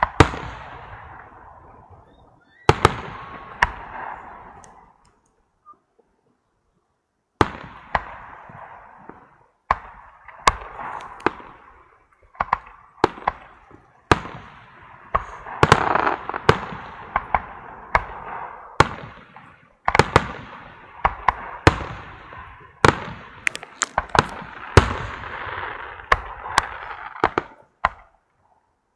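Fireworks going off: sharp bangs, each followed by crackling that fades away. After a silent gap of a few seconds, the bangs come faster and overlap.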